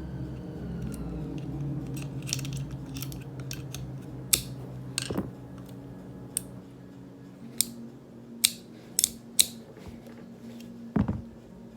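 Sharp metallic clicks and taps from small revolver parts and hand tools being handled during disassembly and reassembly of a Smith & Wesson 642. There are about a dozen irregular clicks, the loudest about halfway through and again near the end, over a low steady hum.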